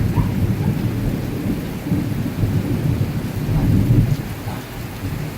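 Thunder rumbling low and rolling, swelling about two to four seconds in and easing off near the end, over the steady hiss of rain.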